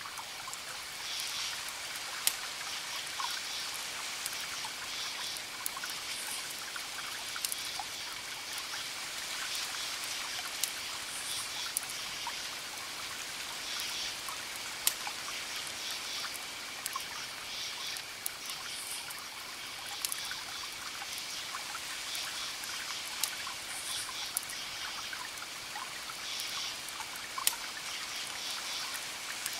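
Wood fire crackling, with irregular sharp pops over a steady soft hiss, while clusters of high chirps repeat every second or two through it.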